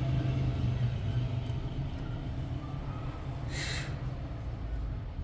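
An engine running steadily with a low hum, with a short burst of hiss about three and a half seconds in.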